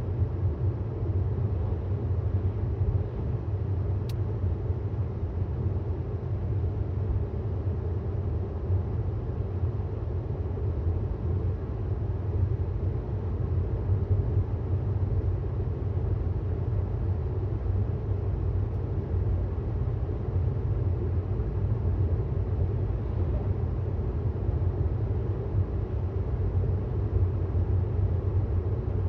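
Steady low rumble of tyres and road noise from a 2018 Tesla Model S 75D driving at speed, with a single short click about four seconds in.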